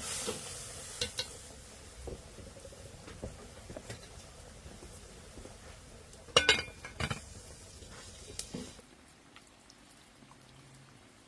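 Metal utensils clinking and scraping against pots and dishes over a steady frying sizzle, with a louder flurry of clanks just after the middle; the sizzle drops away near the end.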